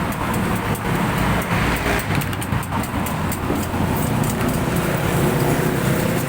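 Steady road-traffic noise: the low engine rumble of motor vehicles, with light clicking over it.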